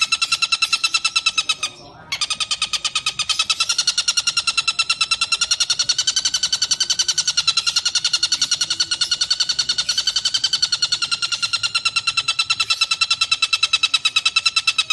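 Tengkek buto kingfisher giving a long, rapid rattling call, a fast even string of sharp notes at one pitch, with a brief break about two seconds in before it resumes.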